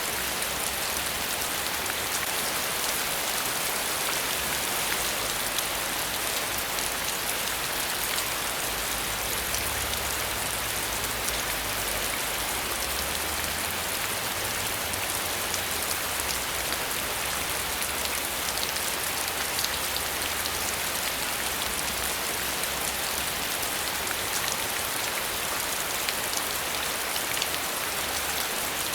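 Steady rain falling, a constant hiss with fine scattered drop ticks and no change in intensity.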